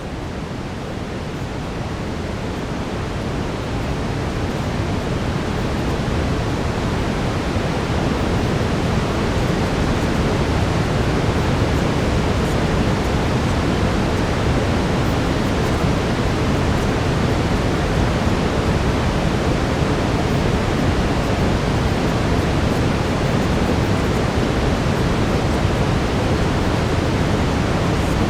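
Brown noise: a steady, even rushing hiss, heaviest in the low end, that swells up over the first several seconds and then holds level.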